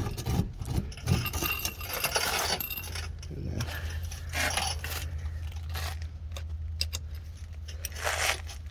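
Metal clinking and knocking of lug nuts and hand tools as a car wheel's lug nuts are fitted and tightened. A steady low hum sets in about three seconds in.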